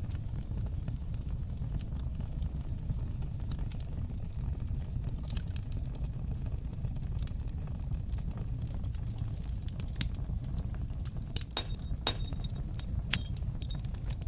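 Fireplace fire crackling over a steady low rumble of flames, with scattered sharp pops. A cluster of louder pops comes near the end, the loudest about 13 seconds in.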